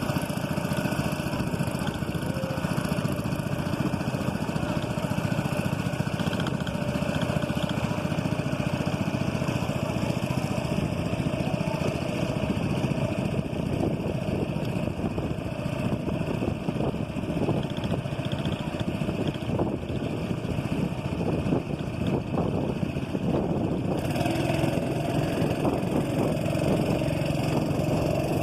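Small boat engine running steadily with an even drone, its tone shifting slightly near the end.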